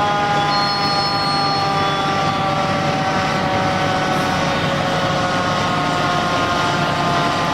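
Fire apparatus siren sounding one long wail that slides slowly down in pitch, over the steady rumble of engine and road noise.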